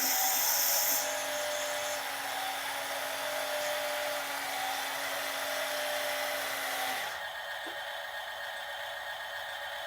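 Small electric motor of a toy RC dump truck running with a steady whine, stopping about seven seconds in.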